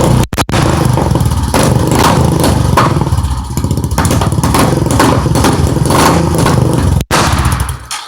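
ATV engine running on a cold start, its level rising and falling, then stopping abruptly near the end. The owner blames watered-down gas in the tank for its trouble running.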